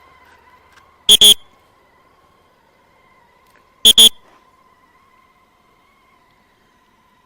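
Two loud, high-pitched double blasts of a traffic whistle, each a quick pair of toots, about three seconds apart. A faint steady whine runs underneath.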